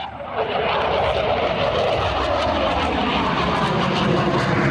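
F/A-18 Super Hornet's twin turbofan jet engines roaring during a flypast, steady and loud, with a pitch that drops over the first couple of seconds as the jet passes.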